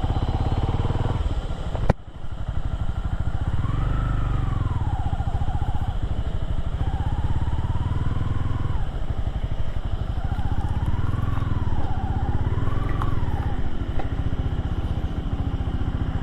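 Motorcycle engine running, its pitch rising and falling every few seconds with the throttle. There is a sharp click about two seconds in.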